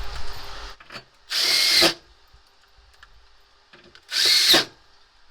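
Power driver spinning in two short bursts about three seconds apart, each about half a second long with a high whine, driving or backing out screws on an air-conditioner unit.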